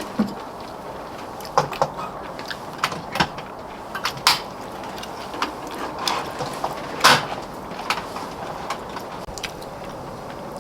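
Tableware clicking and knocking during a meal: scattered sharp taps of chopsticks and spoons against bowls, the loudest about seven seconds in, over a steady low hiss.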